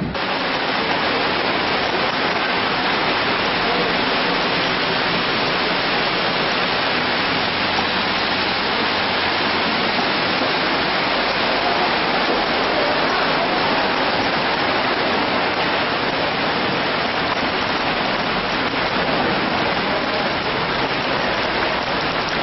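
Heavy rain pouring steadily, mixed with the rush of floodwater running down a flooded street.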